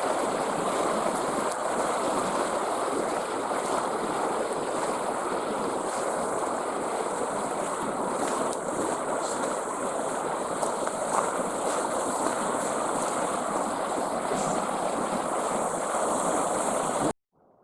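River water rushing steadily, cutting off suddenly near the end.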